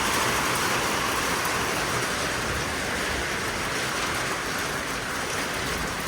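Heavy thunderstorm rain falling steadily, a constant hiss that eases slightly toward the end.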